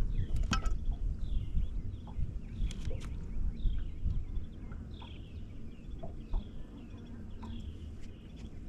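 A bird calling over and over in short, high chirps that fall in pitch, about one a second, over a steady low rumble. A few sharp knocks come near the start and again about three seconds in.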